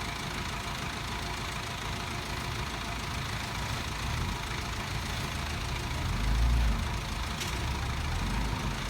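Heavy diesel engine of earthmoving machinery running steadily, with a low swell in engine sound about six seconds in.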